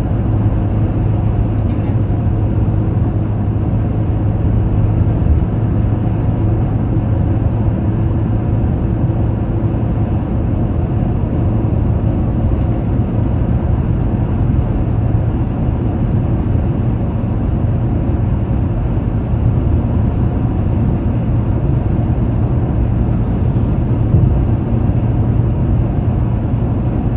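Car travelling at motorway speed: a steady low drone of engine and tyre road noise, unchanging throughout.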